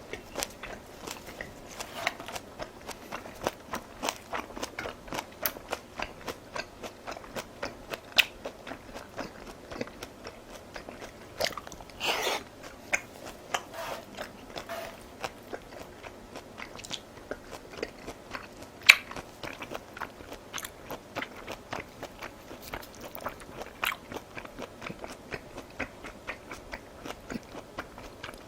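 Close-miked chewing of crunchy food: a dense, irregular run of small crisp crunches and wet mouth clicks, with a few louder bites.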